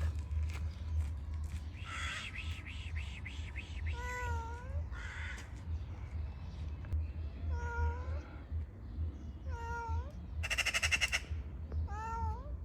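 A domestic cat meowing four times, each meow dipping then rising in pitch. A short harsh rattling call about ten and a half seconds in is the loudest sound, with a rapid chattering earlier, over a steady low rumble.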